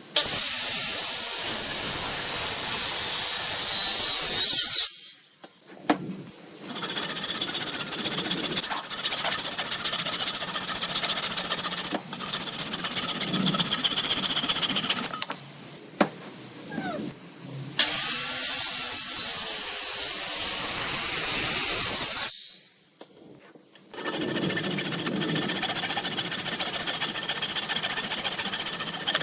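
Power tools running on wood in several separate stretches, each broken off abruptly, with a short lull about five seconds in and another near the end.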